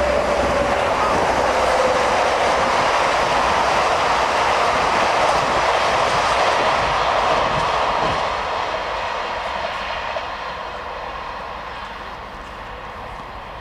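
Double-deck electric suburban train passing on the line: a steady rushing of wheels and running gear. It stays loud for about eight seconds, then fades as the train draws away.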